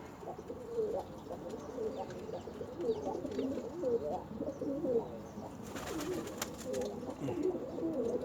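Domestic pigeons cooing, several overlapping, with a brief rattle of clicks about six seconds in.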